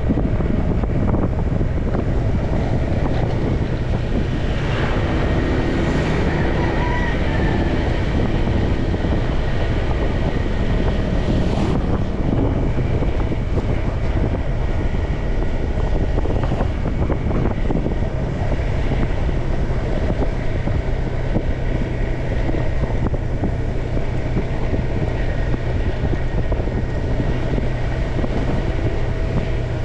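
Motorbike engine running steadily under loud wind buffeting on the microphone while riding.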